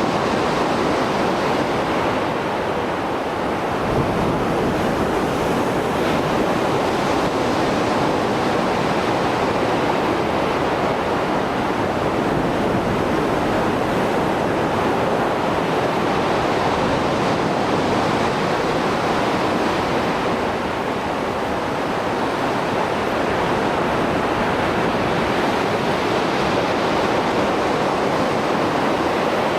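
Mediterranean surf after a storm: waves breaking in a continuous, dense wash that swells and eases slightly without pause.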